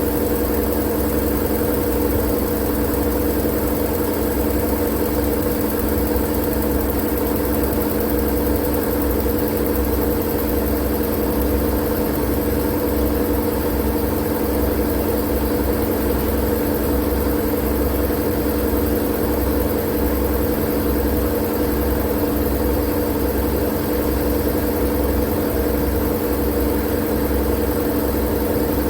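Steady, unchanging droning noise: a continuous hum with a low rumble beneath, played as white noise for sleep.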